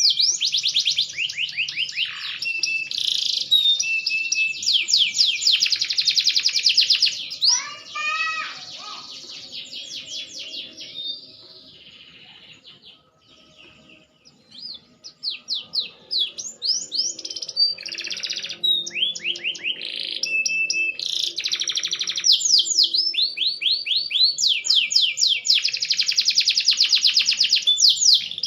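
Green canary singing in long runs of fast, high trills and rolling phrases. The song drops almost to nothing for a couple of seconds near the middle, then starts up again.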